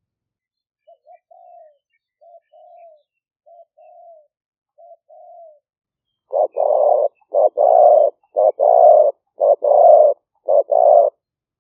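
Spotted dove cooing. First come four soft phrases, each a couple of short notes and a longer coo. About halfway through, a much louder run of about eight coos in quick phrases follows: a decoy dove's advertising call.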